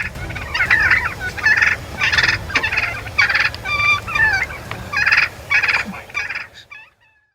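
Wild turkeys gobbling, a string of rapid, rattling calls that overlap and repeat every second or so, then fade out near the end.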